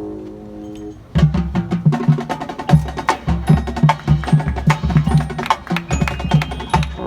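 Marching band: a held brass chord cuts off about a second in, and the percussion section takes over with a fast drum passage of low drum hits and ringing mallet percussion.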